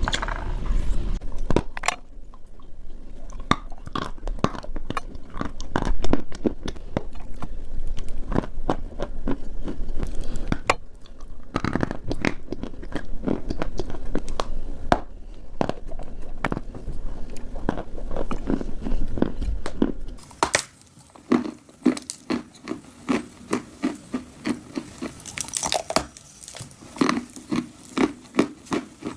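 Dry clay being bitten and chewed right at the microphone, a dense crackly crunching. About two-thirds of the way through it changes to separate crunches at roughly two a second.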